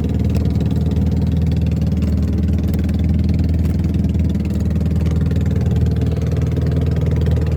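A small engine running steadily at an even speed, with no rise or fall in pitch.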